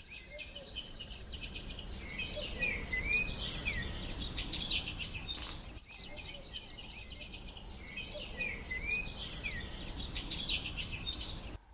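Birds chirping with quick trills and swooping notes over a low steady rumble, the same stretch of birdsong coming round again about six seconds later.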